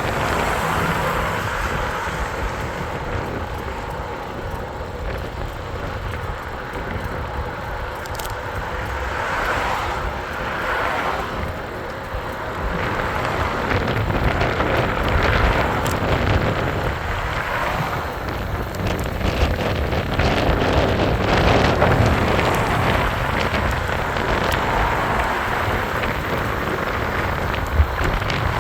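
Wind rushing over the microphone on a moving e-bike, with a steady rumble of road noise that swells and fades.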